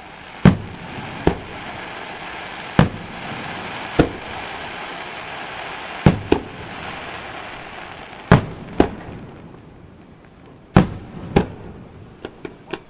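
Aerial firework shells bursting: about ten sharp booms at irregular intervals a second or two apart, some in quick pairs, over a steady hiss. Near the end comes a quick run of smaller pops.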